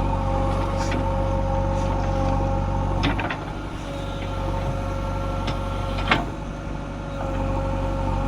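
Heavy diesel machine engine running steadily, with a sharp knock about three seconds in and a louder one about six seconds in, the engine's low hum dipping briefly after each.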